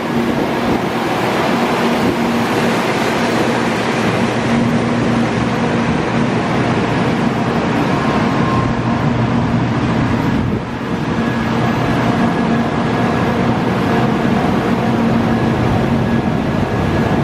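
A 700 series Shinkansen trainset running past: a steady, loud rail noise with a few faint held tones, dipping briefly about ten seconds in.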